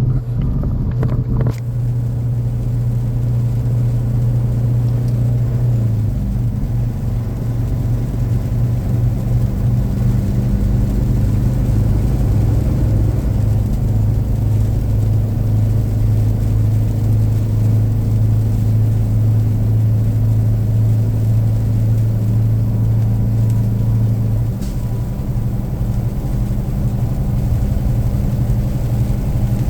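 Car driving: a steady low engine and road drone that shifts in pitch about six seconds in.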